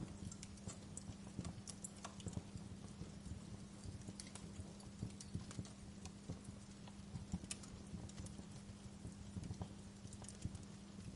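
Wood fire crackling in a fireplace: irregular sharp pops and snaps over a soft steady burning hiss, with a faint low hum underneath.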